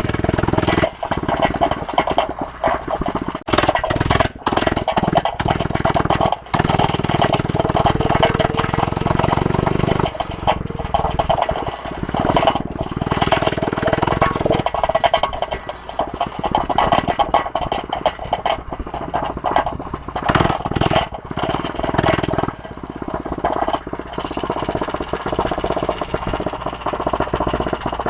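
Small dirt bike being ridden over a bumpy dirt track: the motor runs with a steady note that rises and falls with the throttle, mixed with knocks and rattles from the bumps.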